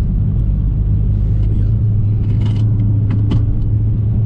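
Car engine and road noise heard inside the cabin while driving: a steady low drone, with a few faint clicks a little past the middle.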